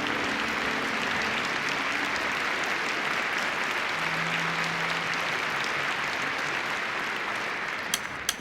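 Audience applauding steadily in welcome, dying away near the end with a couple of sharp clicks.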